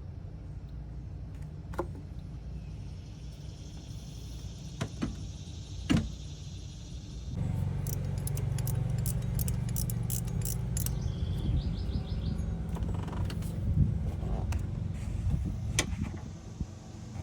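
Metal hand tools and parts clinking, with a few sharp knocks. About seven seconds in, a steady low hum starts, with a run of rapid clicks over it.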